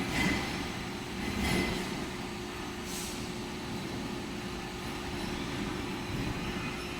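Milling machine running with a steady hum, with three brief high hissing bursts in the first three seconds.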